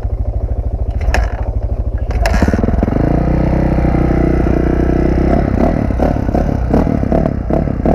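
Dirt bike engine running at a slow, throbbing idle with a few sharp clicks, then revving up about two seconds in and holding at higher revs.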